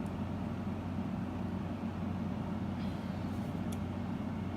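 A steady low hum, with a couple of faint ticks a little before the end.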